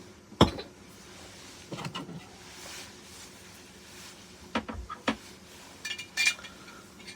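Kitchenware being handled: a sharp knock about half a second in, then scattered lighter taps and a couple of small ringing clinks near the end.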